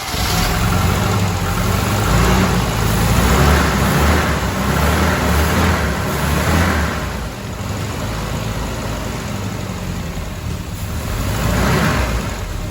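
Mercedes-Benz W124 230E's four-cylinder petrol engine running just after starting, its revs rising and falling back three times.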